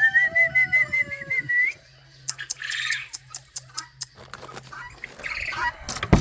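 A rooster crows once, a long pulsing call that rises at the end and stops about a second and a half in, followed by chickens clucking. There is a loud knock near the end.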